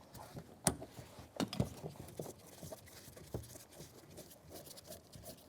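Phillips screwdriver working screws out of a plastic interior door handle: faint irregular clicks and small taps, with a few sharper clicks.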